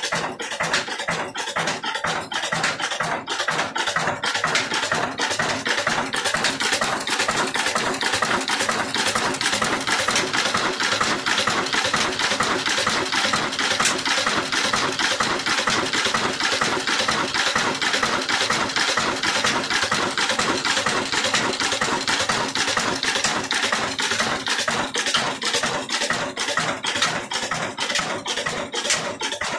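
Old Ruston Hornsby diesel engine running a stone flour mill (chakki), a dense, continuous clatter of rapid clicks and knocks.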